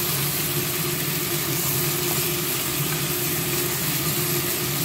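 Chicken pieces frying in a pan, a steady sizzling hiss over a steady low hum.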